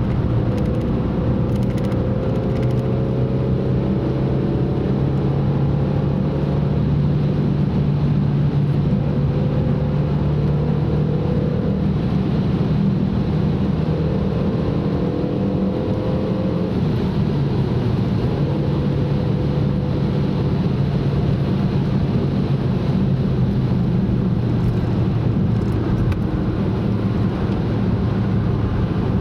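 Car engine running under load over steady road and tyre noise, its pitch slowly rising and then stepping down a few times as it accelerates and shifts gear.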